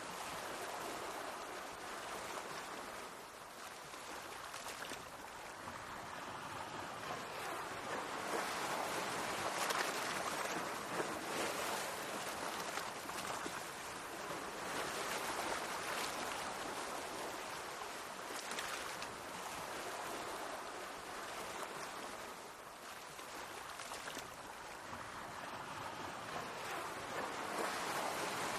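Sea waves washing onto the shore and swirling back, a continuous splashing hiss that swells and ebbs every few seconds.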